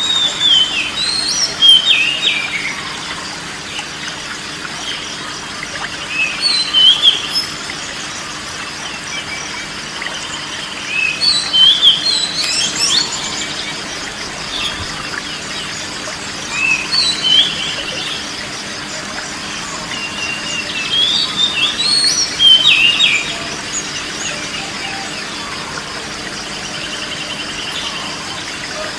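Songbird singing in short, varied whistled phrases that come about every five seconds, over a steady background hiss with a faint low hum.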